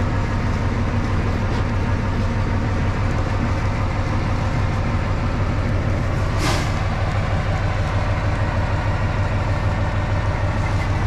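Diesel locomotive engine idling with a steady low hum, with a short hiss about six and a half seconds in.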